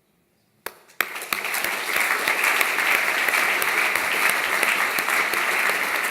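Audience applauding: a first clap or two, then within about a second the whole audience joins in with steady applause.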